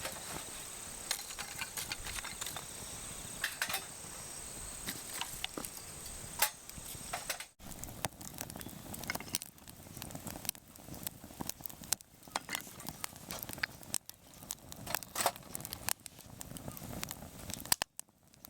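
Small wood fire of feather sticks and kindling just catching, crackling with scattered pops and snaps. A faint steady high tone sounds for the first few seconds, and the sound drops out briefly twice.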